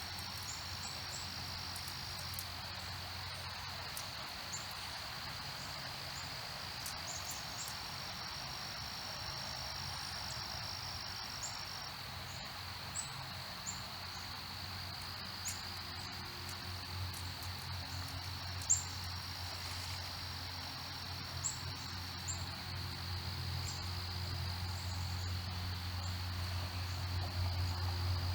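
Steady insect chorus, a continuous high-pitched trilling drone, with scattered short bird chirps over it. A low hum swells louder near the end.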